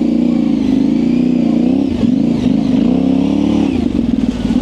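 2024 Yamaha Ténéré 700's 689 cc parallel-twin engine, through an aftermarket high exhaust, running under throttle with its revs swinging up and down. The revs dip briefly about two seconds in and again near the end, as the throttle is worked for traction in soft dirt.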